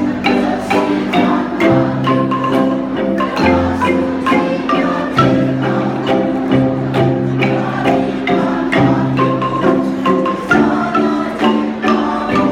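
Kolintang ensemble playing: wooden xylophones struck with mallets, with rolled, held notes over a moving bass line.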